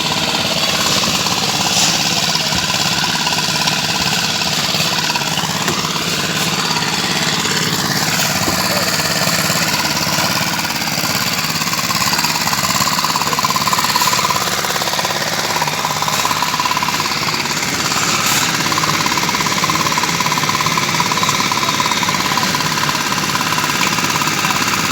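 Construction machinery engine running steadily and loudly with a rapid rattling beat.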